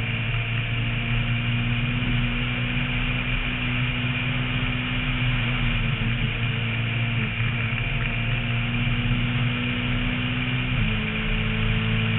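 Renault Mégane rally car's engine running at fairly steady revs under way, heard from a roof-mounted camera with a steady rush of wind and road noise; the engine note steps down in pitch about eleven seconds in.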